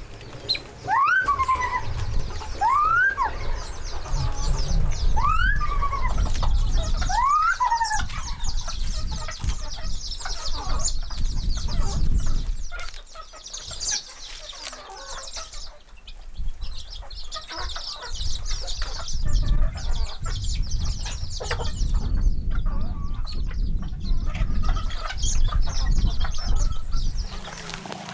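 Chickens clucking and calling, with four short rising calls in the first eight seconds, over a steady low rumble.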